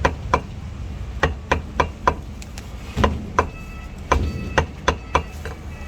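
Cleaver chopping roast meat on a chopping block: sharp chops about three a second, in short runs with brief pauses.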